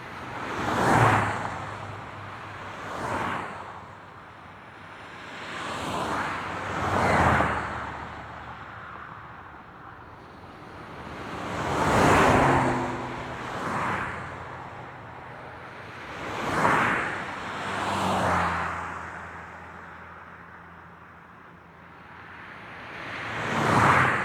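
Highway traffic: vehicles pass one at a time, about nine of them, each a whoosh of tyres and engine that swells and fades. Quieter road noise fills the gaps between them.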